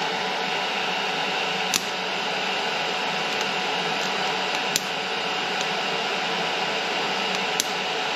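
TIG welder tack-welding stainless steel exhaust pipe: a steady hiss, broken by three sharp snaps about three seconds apart.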